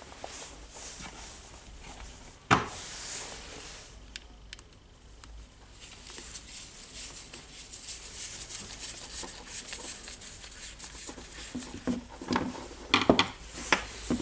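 Small handling noises as wires are fitted to a cordless rotary hammer's switch: a sharp click about two and a half seconds in, soft rubbing, then a quick run of small clicks and taps near the end.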